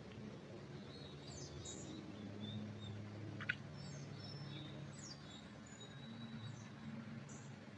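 Small songbirds chirping and trilling in a pine forest, short high calls scattered throughout, over a steady low hum. A single sharp click about three and a half seconds in.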